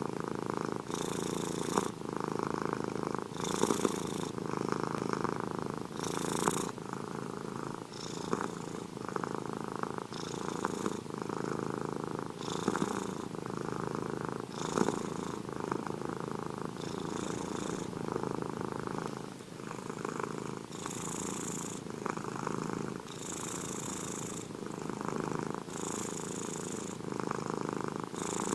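Domestic cat purring steadily and close up. The purr swells and eases with each in- and out-breath, about once every second or so, with a soft breathy hiss on some of the breaths.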